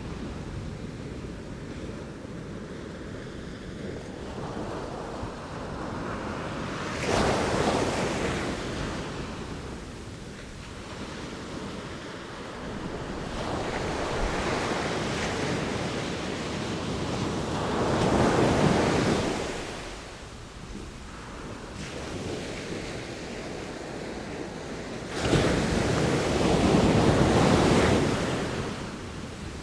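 Sea waves breaking and washing ashore in a steady rush, with three bigger waves surging louder: about a quarter of the way in, just past the middle, and near the end.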